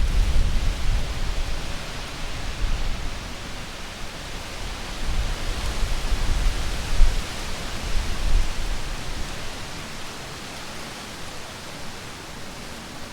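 Gusty wind buffeting the microphone with a low rumble over a steady rushing hiss. The gusts come hardest at the start and again midway, then ease off near the end.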